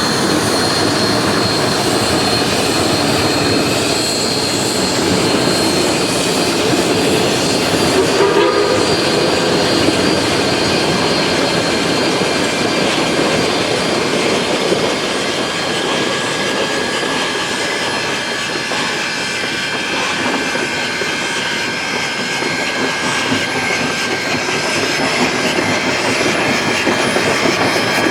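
Geared steam logging locomotive working with its train, a steady loud mix of exhaust and running gear.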